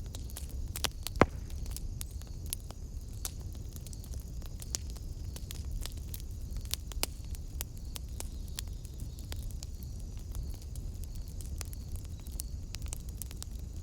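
Wood fire in a fireplace crackling over a steady low rumble, with scattered pops and one sharp, loud pop about a second in.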